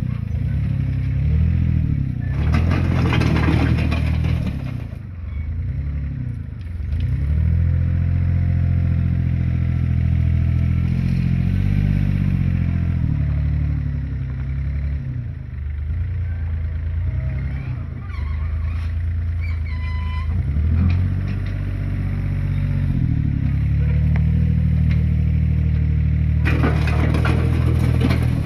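Heavy diesel engines of construction machinery running and revving, rising and falling in pitch. There are two spells of clatter, one about two to five seconds in and one near the end.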